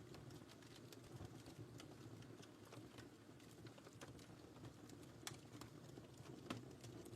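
Quiet wood fire crackling in a fireplace: a steady low rush of flames with scattered sharp pops, the loudest about five and six and a half seconds in.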